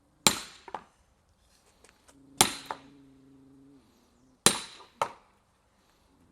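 Fiskars axe chopping firewood: three sharp strikes about two seconds apart, the first and last each followed half a second later by a lighter knock.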